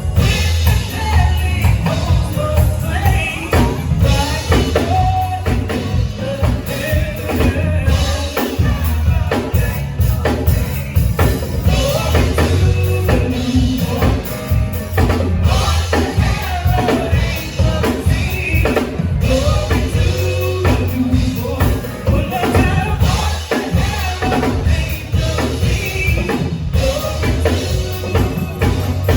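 Band music with a voice singing over a drum kit and a strong bass line.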